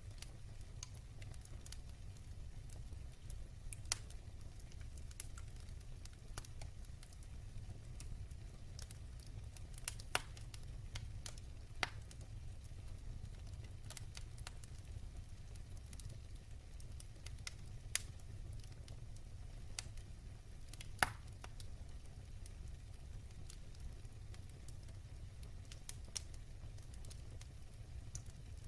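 Wood fire burning in a fireplace: a steady low rumble with sharp crackles and pops every few seconds, the loudest pop about three quarters of the way through.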